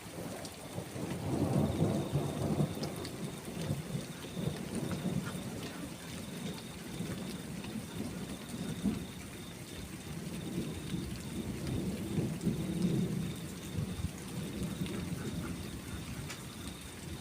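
Rolling thunder rumbling over steady rain, swelling about a second in and again more than halfway through, with scattered raindrop ticks.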